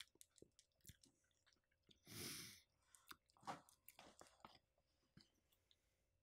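Faint mouth sounds of a person chewing food: scattered soft clicks, with one short hiss about two seconds in.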